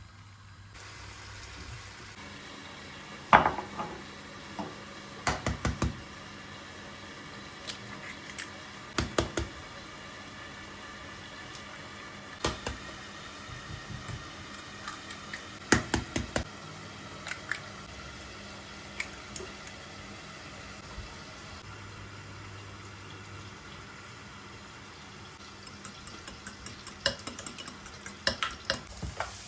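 Kitchen cooking sounds: utensils clinking and clattering against dishes and pans in scattered knocks and short runs, over a steady low hiss.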